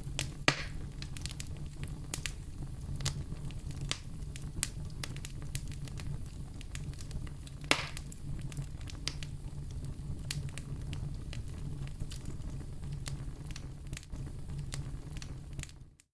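Wood fire crackling in a fireplace, with a steady low rumble under many small snaps. Two louder pops come about half a second in and about halfway through. The sound cuts out briefly near the end.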